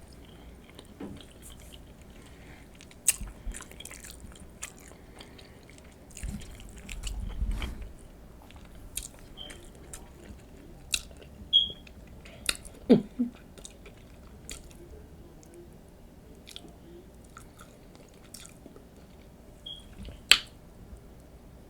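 Close-up chewing and biting of loaded nachos, with scattered sharp crunches and clicks and a few louder snaps.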